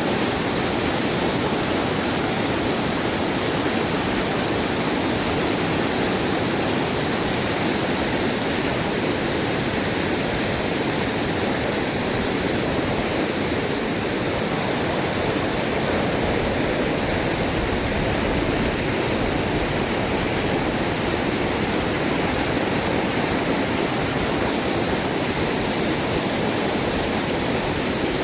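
Fast-flowing, rising river water rushing steadily.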